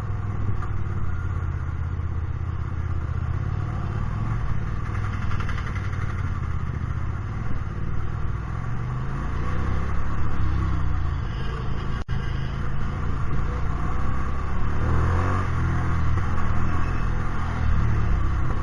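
Hyosung GT250R's V-twin engine running through an aftermarket Solfer exhaust while ridden in traffic, its engine speed rising and easing off again several times. There is a momentary gap in the sound about twelve seconds in.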